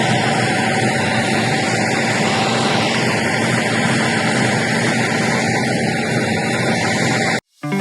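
A steady engine drone under a broad rushing noise, which cuts off suddenly near the end.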